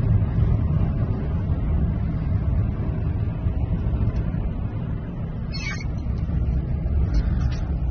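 Strong storm wind buffeting the microphone: a loud, steady low rumble with no distinct events.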